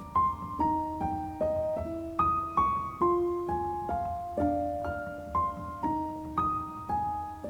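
Soft solo piano music: a gentle melody of single notes and chords, about two or three notes a second.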